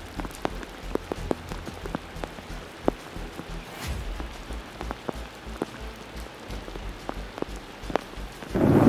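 Heavy rain falling on floodwater and mud: a steady hiss with many separate drops smacking the water surface. Near the end a much louder rumbling noise sets in.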